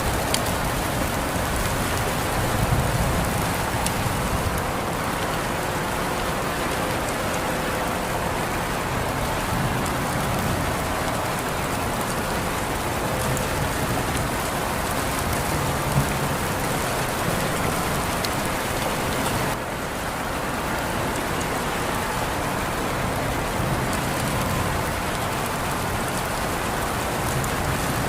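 Steady rain falling and pattering on surfaces, an even hiss with scattered sharper drop hits. It eases slightly about two-thirds of the way through.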